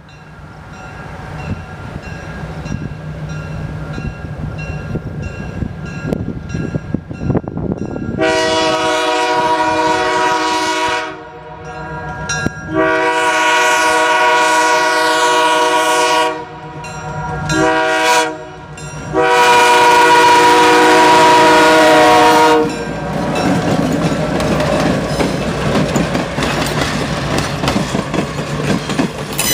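EMD GP7 diesel locomotive approaching with its engine running, then sounding its Nathan K3L air horn in the grade-crossing pattern: long, long, short, long. The train then rolls past with its wheels clattering over the rail joints.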